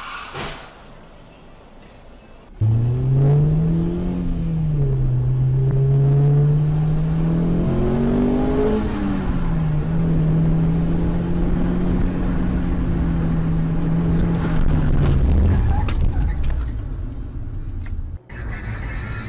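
Car engine pulling hard. From about two and a half seconds in, its note climbs and drops twice as it shifts gears, then holds steady at speed for several seconds before easing off, over road noise.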